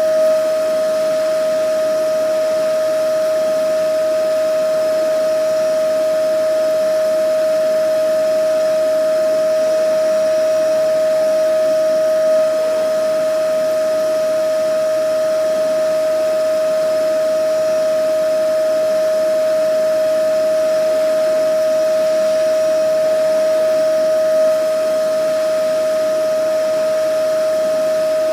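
Vacuum cleaner running steadily: a constant high whine over an even hiss, with a slight swell about every twelve seconds.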